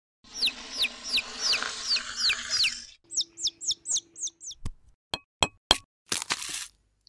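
Chick-like peeping: a run of quick falling cheeps, about three a second, then faster, higher ones. Near the end come four sharp clicks, like plastic bricks knocking, and a short hiss.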